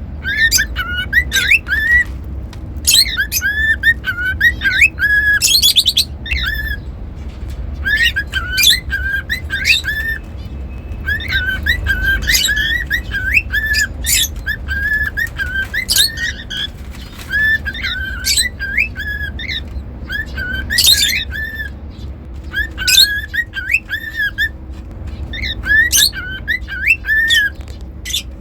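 Cockatiel whistling in short repeated phrases of wavering notes, with sharp chirps mixed in, every second or two.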